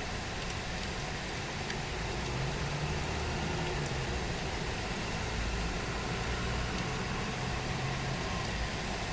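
Steady heavy rain hiss, with a low engine hum joining about two seconds in and fading near the end.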